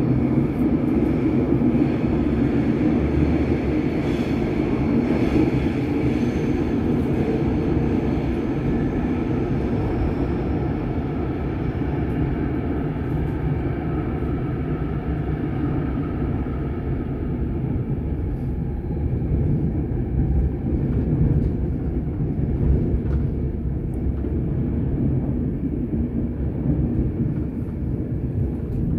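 Cabin rumble of a RABe 511 RegioDosto (Stadler KISS) double-deck electric train running through a tunnel. The higher wheel and motor noise fades about halfway through as the train slows for a station, leaving a steady low rumble.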